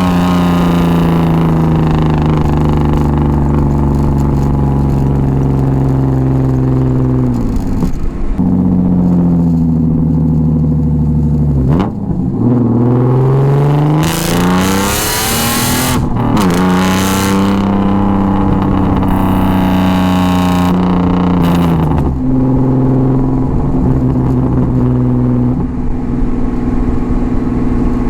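BMW M50B25 inline-six running through a straight-piped 3-inch stainless exhaust with Schmiedmann headers, heard from the back of the car while driving. The engine note climbs and falls repeatedly with throttle and gear changes, with sharp breaks about 8, 12 and 22 seconds in.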